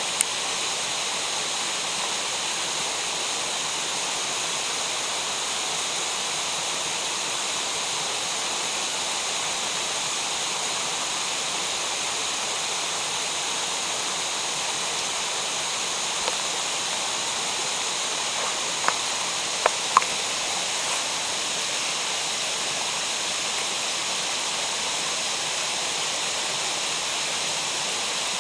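Steady rush of water running through a mountain gorge, with a few short sharp clicks about two-thirds of the way through.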